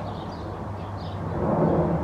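Jet engines of a Boeing 737 on approach, a steady low rumble with a faint hum that grows louder near the end as the aircraft draws closer.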